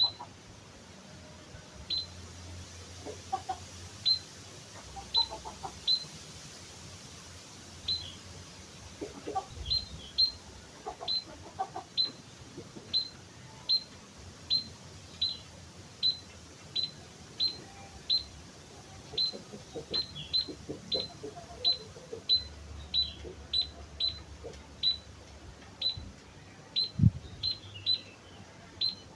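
White-headed munia (emprit kaji) repeating short, thin, high call notes, one to two a second through the stretch. A single sharp knock sounds near the end.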